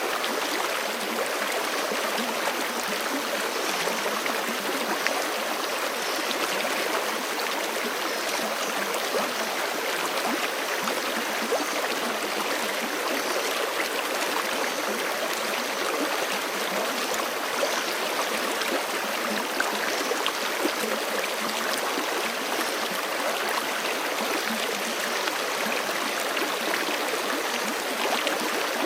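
A forest creek running steadily over rocks, with a continuous rushing and many small splashes and gurgles.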